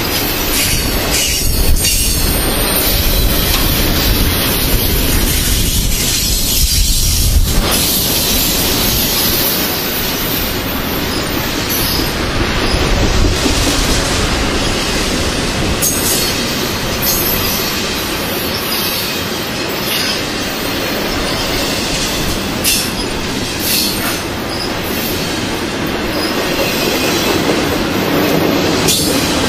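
Double-stack intermodal freight train's loaded well cars rolling past, a loud steady rumble and rattle of steel wheels on rail with scattered sharp clicks.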